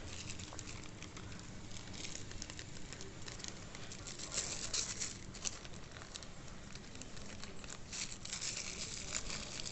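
Faint, irregular rustling and crinkling of plastic packaging as the mic's accessories are put back into the cover they came in.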